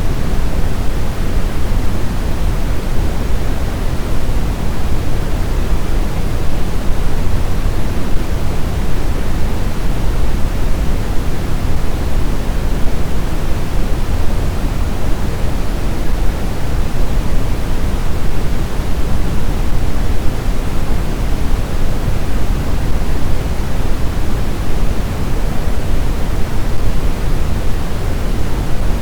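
Snowstorm wind ambience: a steady, dense rush of noise, heaviest in the low end, with no gusts rising and falling and no howling tones.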